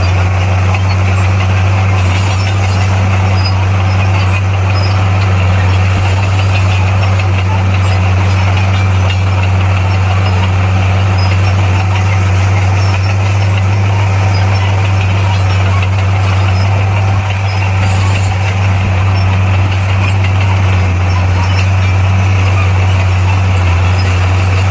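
Bulldozer's diesel engine running steadily, a low even drone that holds one pitch without revving up or down.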